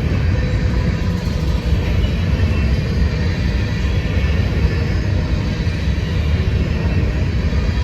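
Train rolling past, a steady rumble of wheels on rail with no let-up.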